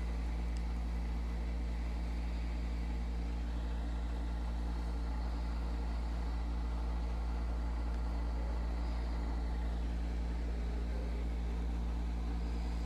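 Steady low mechanical drone with a deep rumble and a constant hum, running without change in level or pitch.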